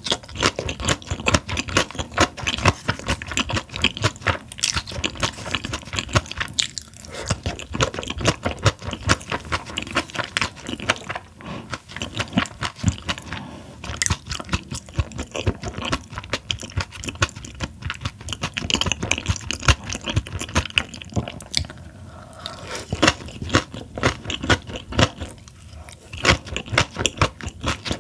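Loud close-miked chewing and crunching of a mouthful of raw Chinese herring sashimi, with short pauses between bouts of chewing.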